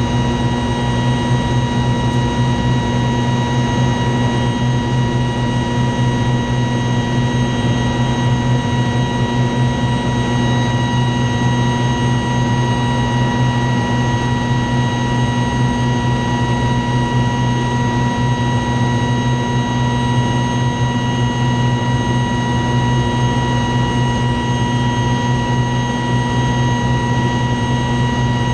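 Helicopter turbine engine running steadily after start-up: a constant high whine with several steady tones over a low hum, with no change in pitch or level.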